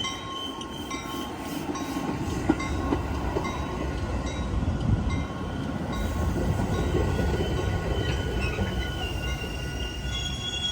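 Commuter train with an EMD F59 locomotive rolling slowly along the platform: a steady low rumble from the wheels and engine, with several high, steady squeals from steel wheels or brakes. The squeals shift in pitch near the end.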